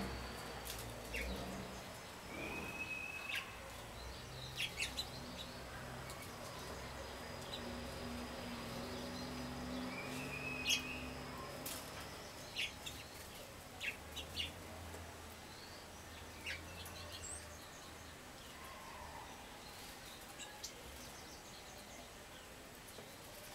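Small wild songbirds giving scattered short, sharp chip calls and a few brief whistled notes, over a faint low hum.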